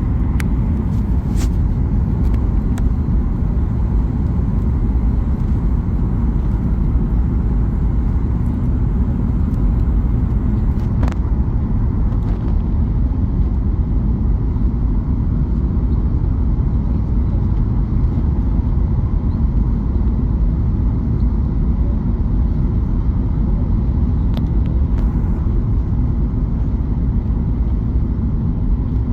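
Steady low rumble of a Boeing 737's engines and airflow heard inside the passenger cabin, holding an even level throughout.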